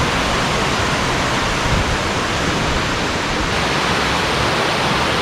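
Waterfall and stream rushing, a loud, steady, even hiss of falling and flowing water.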